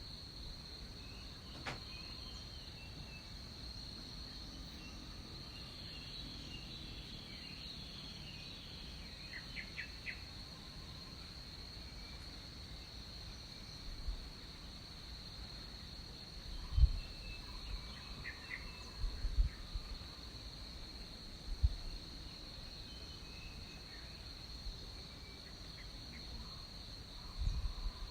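Tropical jungle ambience: a steady high-pitched insect drone with a few short bird chirps. Several brief low thumps, the loudest sounds, come in the second half and near the end.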